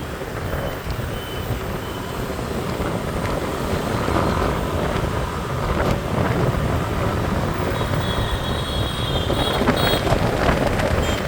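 Street traffic rumble and wind noise on the microphone while riding through city streets. High-pitched beeping comes in near the end.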